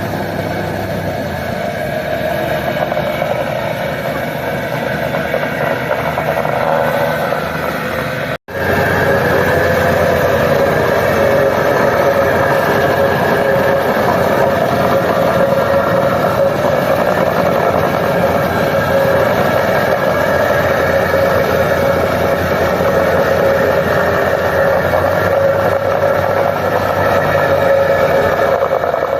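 An engine running steadily, with a brief dropout about eight seconds in, after which it continues slightly louder.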